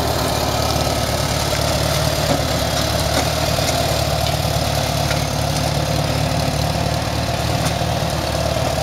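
1975 Farmall 140's four-cylinder gasoline engine running steadily and smoothly at a low, even speed.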